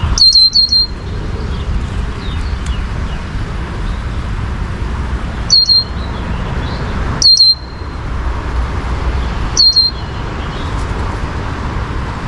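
A bird's high chirping call, a quick phrase of two or three notes, sounding four times with gaps of a few seconds between, over a steady low traffic hum and faint chirps from other birds.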